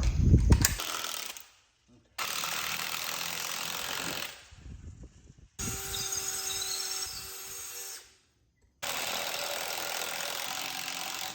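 Power tool running in three separate stretches of a few seconds each, starting and stopping abruptly, driving lag bolts into the bench legs; the middle stretch carries a steady motor whine.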